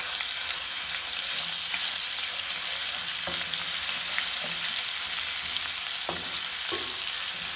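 Garlic and ginger paste sizzling in hot ghee in a metal pot as it is sautéed, stirred with a wooden spoon that knocks against the pot a couple of times.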